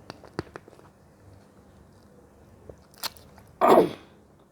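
Someone eating fruit close to the microphone: a few small mouth clicks, then one loud, short bite about three and a half seconds in.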